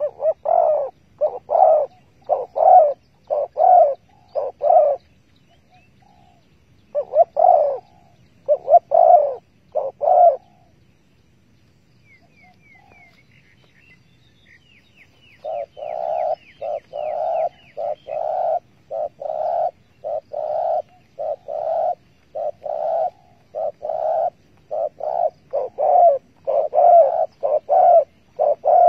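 Spotted dove cooing in repeated low phrases: two bursts early on, a pause, then a long, even run of coos through the second half. A faint series of high, falling chirps from a small bird comes in the pause.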